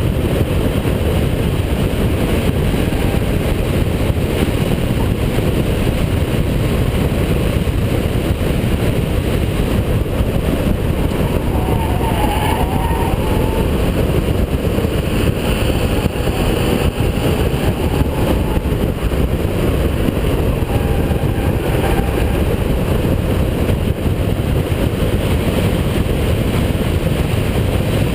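Holden VP Commodore's 3.8-litre V6 running hard at racing speed, a loud, steady mix of engine, road and wind noise with no break.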